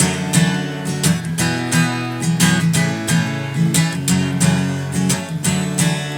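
Acoustic guitar strummed in a steady rhythm, chords ringing on without singing: an instrumental passage between sung lines of a song.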